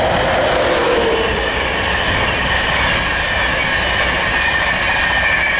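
InterCity 225 electric express's Mk4 coaches passing close at speed: a loud, steady rush of wheels on rail, with a high ringing hum from the wheels and rails. A lower tone falls in pitch in the first second as the train front draws away.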